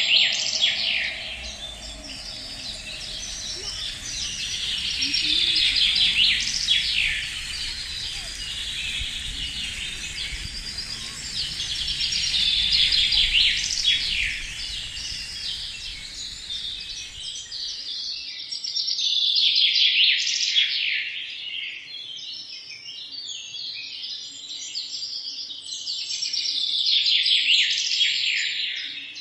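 Songbirds singing: dense phrases of rapid, falling chirps that swell every six or seven seconds. A low background rumble cuts off abruptly about two-thirds of the way through, while the song carries on.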